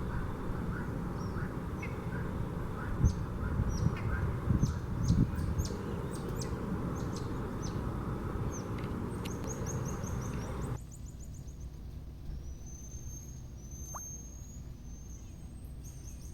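Wild birds calling outdoors. For the first ten seconds or so, many short high chirps sound over a heavy low rumble. Then the sound cuts to a quieter scene with thin, high whistled notes that glide in pitch.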